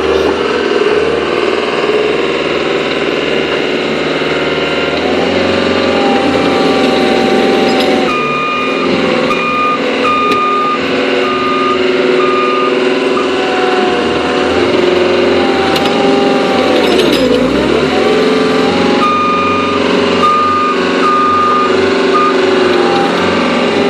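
Caterpillar 287C compact track loader working: its diesel engine running under changing load, the pitch rising and falling and sagging hard for a moment about two-thirds of the way through. Its reverse alarm beeps steadily in two spells as the machine backs up, once from about a third of the way in and again near the end.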